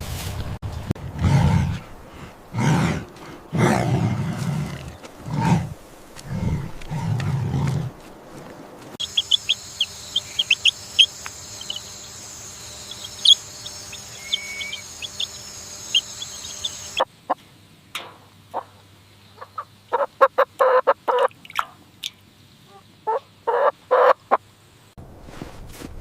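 A string of farm animal clips: low grunts about once a second, typical of a pig, for the first several seconds. Then a run of short high chirps over a steady hiss. Then chickens clucking in quick clusters near the end.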